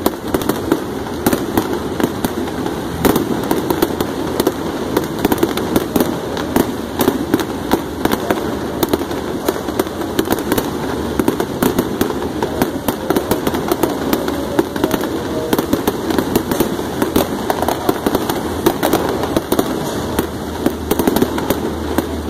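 Fireworks display: a rapid, unbroken stream of pops, bangs and crackles from aerial shells bursting.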